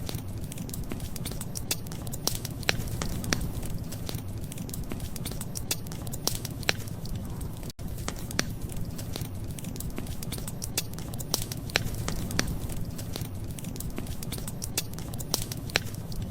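Wood fire crackling: irregular sharp pops and snaps over a steady low rumble, with a momentary dropout about eight seconds in.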